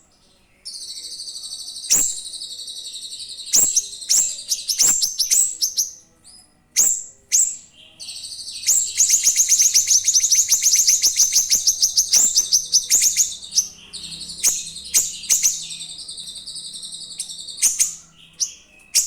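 A small songbird singing: long, very high, rapid trills, broken by sharp single chirps.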